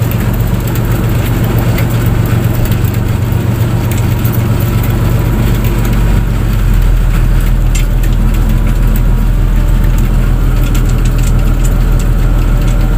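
A fishing boat's engine running steadily with a deep hum. About halfway through, its low note shifts and it gets a little louder.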